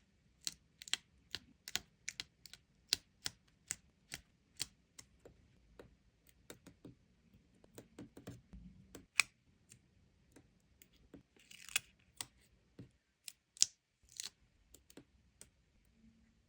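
3D stickers in a sticker book being tapped and handled: an irregular run of sharp clicks and taps, with a few short scraping rasps around 12 and 14 seconds in.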